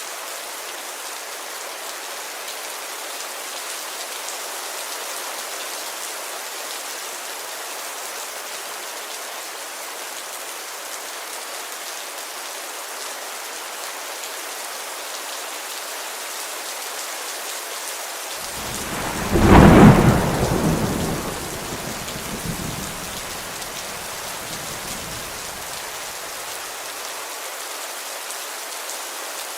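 Steady heavy rain falling on a window, with a single thunderclap about two-thirds of the way in that rumbles away over several seconds.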